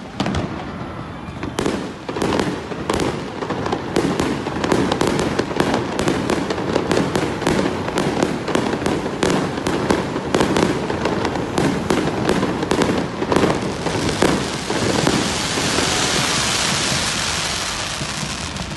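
Fireworks display: aerial shells bursting in a rapid, dense run of pops and bangs, which about fourteen seconds in gives way to a steady hissing crackle.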